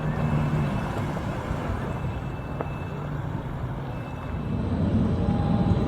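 An engine running at idle with a steady low hum that drops away under a second in, followed by low rumbling that grows louder near the end.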